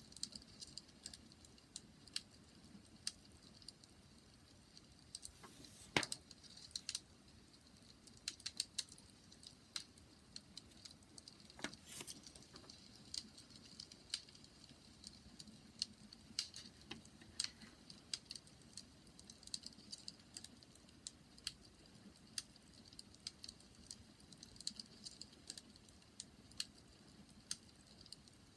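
Wood fire crackling: a steady run of irregular small crackles and snaps, with two louder pops about six and twelve seconds in.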